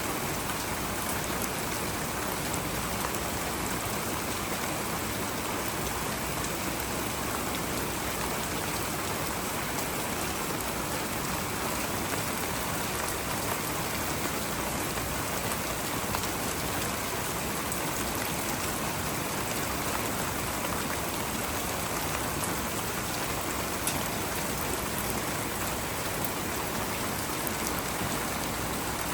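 Steady rain falling, an even hiss of many drops with faint scattered drips standing out here and there.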